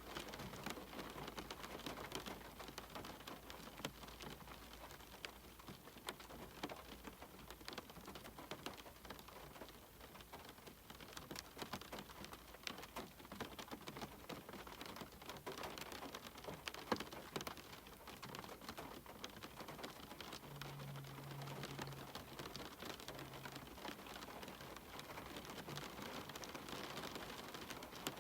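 Steady rain falling, with many single drops tapping sharply through the hiss.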